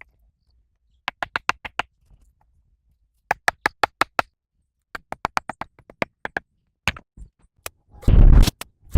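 Hand-tool construction work: quick runs of sharp taps, about six a second, in several groups, then two loud scraping rushes about half a second each near the end.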